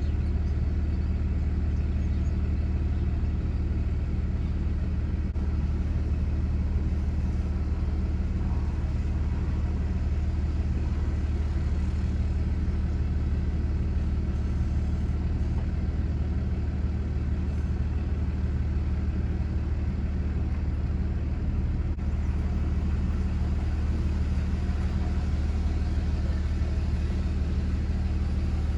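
Steady low drone of a running motor vehicle engine, unchanging throughout.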